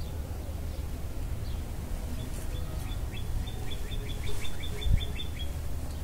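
A small bird singing a quick run of evenly spaced chirps, about four a second, starting about two seconds in and stopping about five and a half seconds in, over a steady low rumble. A brief low thump near the end of the chirping.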